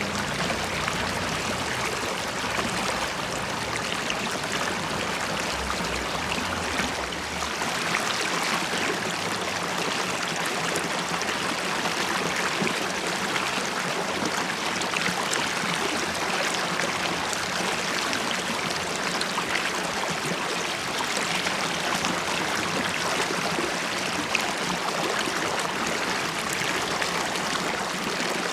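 River water flowing and bubbling: a steady rushing with fine splashes and gurgles throughout. A low rumble underneath dies away about seven seconds in.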